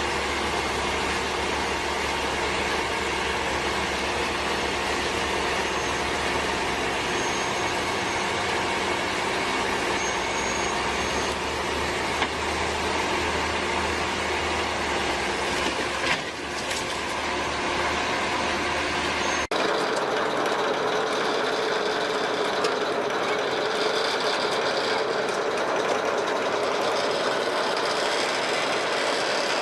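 Steady heavy-vehicle engine and machinery noise with a low rumble. About two-thirds of the way through it cuts abruptly to a different steady noise with no low rumble.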